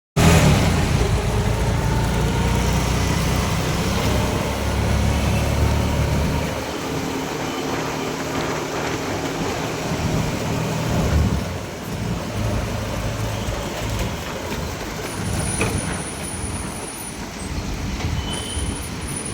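Vehicle rumble over a steady wash of noise, heavier for the first six seconds and then easing.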